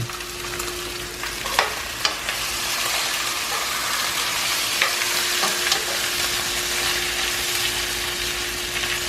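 Rice and garlic sizzling in hot oil in a pan, a steady frying hiss, with a few sharp clicks of the spoon against the pan as it is stirred.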